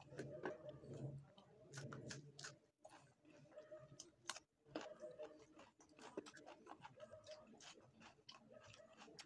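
Faint chewing and lip-smacking of a man eating chicken curry with his fingers: many short wet clicks from his mouth and hands, coming irregularly.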